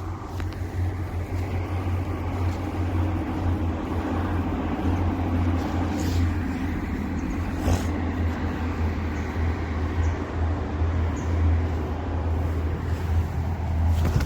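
Steady low rumble and hiss of a bike rolling along a path, with wind on the microphone and a few light clicks.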